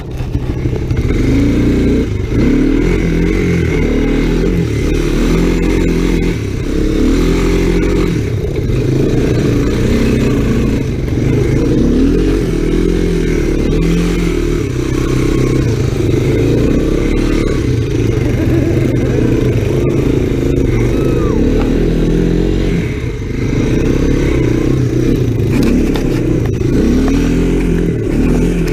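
Honda ATC three-wheeler's engine under way, revving up and down over and over as it is ridden, its pitch rising and falling every second or two.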